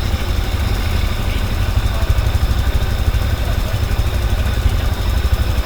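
Motor vehicle engine running steadily with a constant low rumble.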